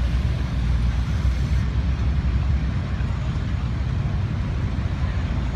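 Diesel pulling tractor's engine running hard and steady, a deep low rumble with no breaks or revving changes.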